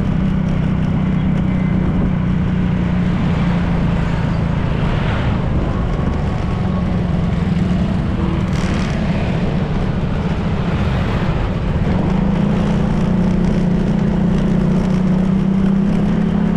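Honda PCX 160 scooter's single-cylinder engine running at a steady cruise, with wind and road rush. The engine note eases off for several seconds in the middle and picks up again, a little stronger and higher, about twelve seconds in.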